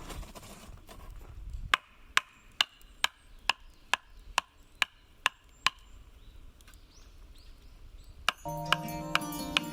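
A hand tool striking hard material about a dozen times at a steady pace, a little over two blows a second, each a sharp crack with a slight ring; the blows stop a few seconds before the end.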